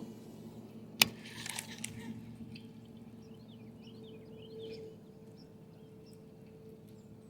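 A single sharp click about a second in, then faint bird chirps over a steady low hum.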